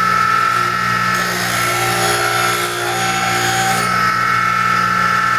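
Electric sharpening grinder running steadily, a steel woodturning gouge, the roughing gouge, being ground against it: a constant motor hum and whine under a grinding hiss that changes as the tool's contact shifts.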